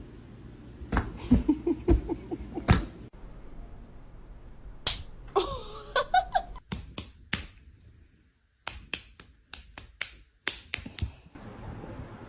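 A run of sharp, irregular slaps and clicks, with a short wavering call about five and a half seconds in.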